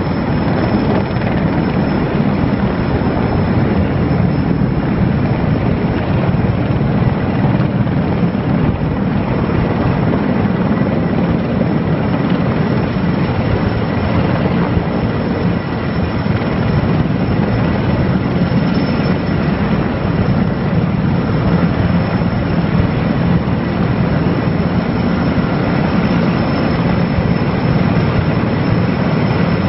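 Erickson Air-Crane heavy-lift helicopter running steadily overhead: a loud, unbroken rotor and engine noise with a thin, steady whine on top.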